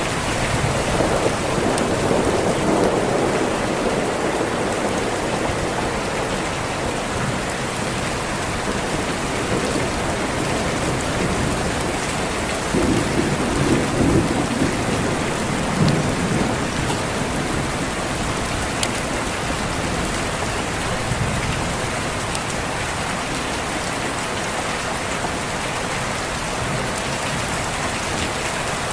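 Steady heavy rain with rolls of thunder: one low rumble about a second in, and a second, stronger roll about halfway through.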